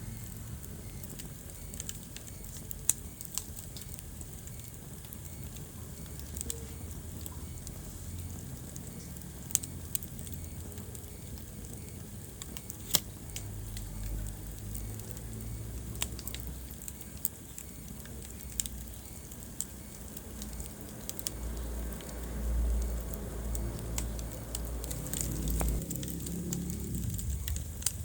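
Wood fire burning in a fireplace, crackling: irregular sharp pops and snaps over a low rumble of flames, which swells for a few seconds near the end.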